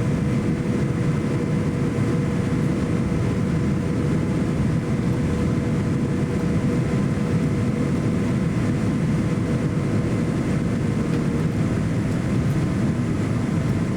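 Cabin noise inside a Boeing 787-9 airliner on the ground: a steady low rumble with a faint steady whine from the engines at low power.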